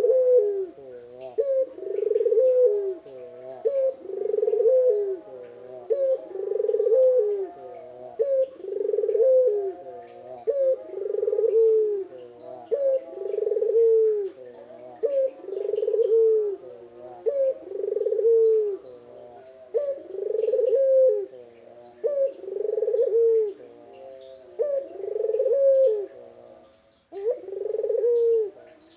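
A puter dove cooing over and over in a steady rhythm, one coo phrase about every two seconds.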